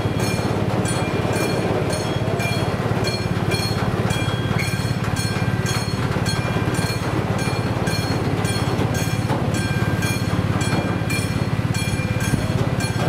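A TGV trainset rolls over the level crossing with a steady low rumble from its wheels on the rails. Over it, the crossing's warning bell rings evenly, about two strokes a second.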